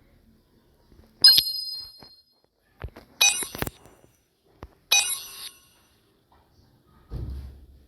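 Three sharp metallic clinks, a couple of seconds apart, each ringing briefly on high tones, followed by a dull thud near the end.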